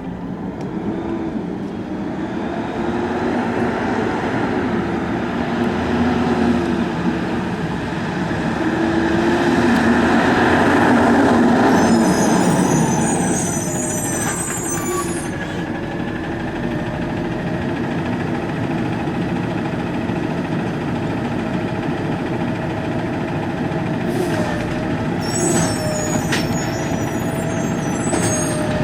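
Garbage truck engine running, building to its loudest about ten to twelve seconds in and then easing off. Brief high squeals come around twelve seconds and again near the end.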